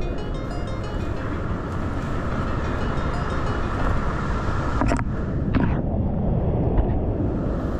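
Steady roar of whitewater rushing through a steep rapid, with two short sharp splashes about five seconds in.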